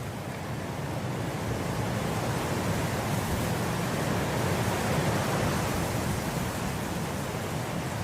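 Wind blowing through swaying grass: a steady rushing noise that builds into a gust over the first few seconds and eases slightly near the end.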